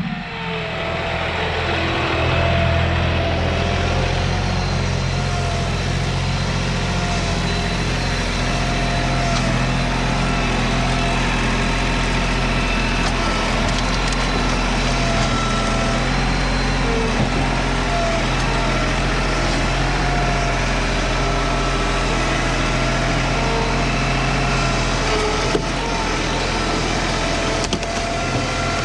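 Large two-stroke chainsaw running steadily at full throttle while cutting through a log, its pitch holding under load. The sound eases a little near the end.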